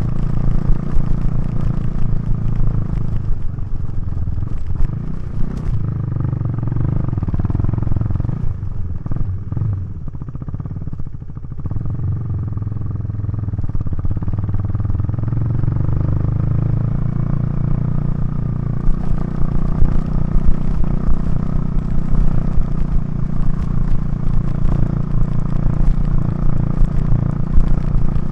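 KTM 390 Duke's single-cylinder engine through an aftermarket Remus exhaust, under way. The revs fall and rise a few times, drop lowest about ten seconds in as the bike eases off, then climb again and hold, getting louder in the last third.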